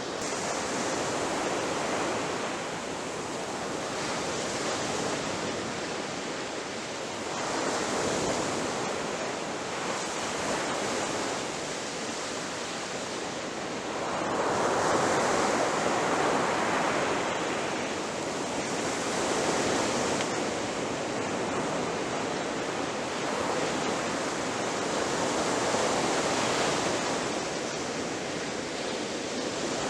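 Ocean waves breaking on a shore: a continuous rush of surf that swells and ebbs every few seconds, with the biggest wave about halfway through.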